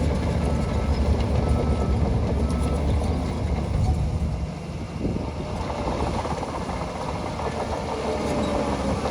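Heavy diesel engine of earthmoving machinery running steadily, with a brief dip in loudness a little under halfway through.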